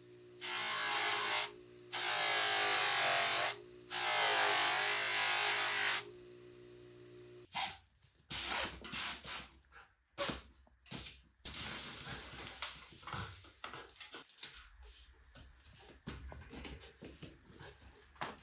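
Spray hissing in three bursts, each one to two seconds long, over a steady low hum. From about halfway in come a run of sharp knocks and rustling handling noises.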